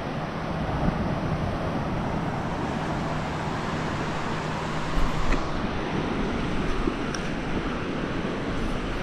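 Wind rushing over the microphone with surf behind it and a steady low hum underneath, broken by a couple of faint knocks about halfway through and again near the end.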